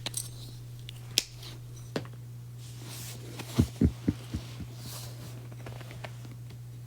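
Steady low hum with a few scattered sharp clicks, then a quick run of five or six soft low knocks a little past the middle.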